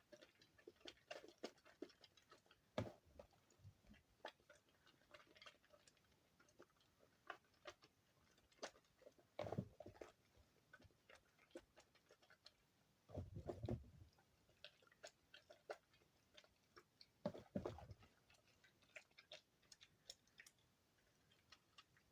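Damp soap shavings being squeezed and pressed together by hand: scattered soft crackles and clicks, with a few louder squishes, one lasting about a second just past the middle.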